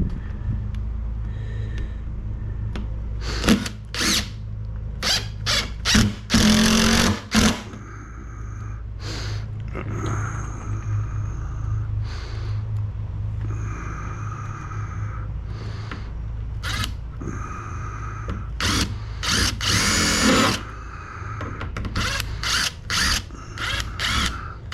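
Power drill run in many short bursts of a second or less, with a few longer runs carrying a steady motor whine, as screws are driven and pilot holes drilled. A steady low hum sits underneath throughout.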